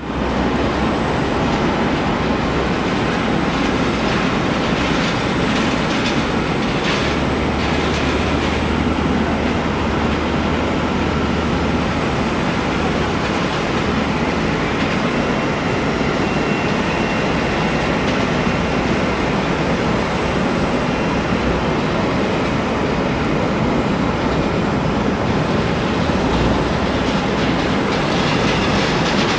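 Steady roar of jet airliner engines, with a faint high whine over the middle part.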